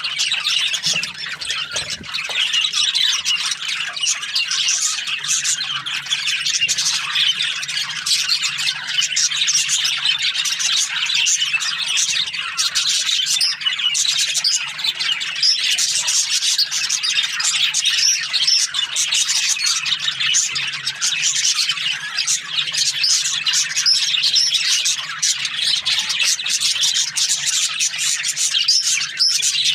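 A flock of budgerigars chirping and chattering continuously, many overlapping calls and squawks at once.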